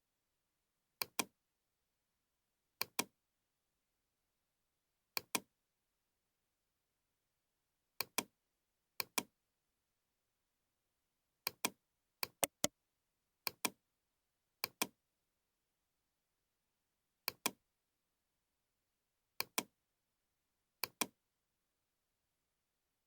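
Computer mouse clicking: about a dozen quick double-clicks at irregular intervals, with one triple click about halfway through, and dead silence between them.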